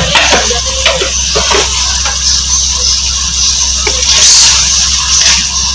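Chicken masala with yogurt sizzling in hot oil in a steel karahi: a steady frying hiss with scattered small pops, loudest about four seconds in.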